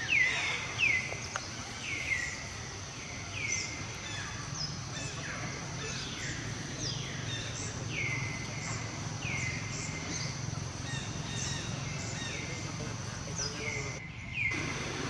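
A bird calling over and over, a short downward-sweeping whistled note about once a second, over a steady high insect-like drone and outdoor ambience.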